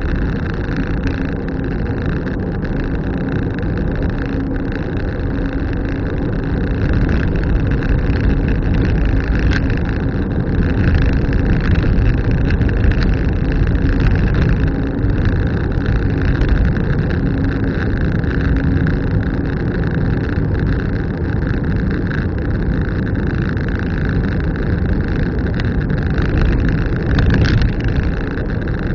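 Car driving along, with a steady mix of engine and road noise heard from inside the cabin.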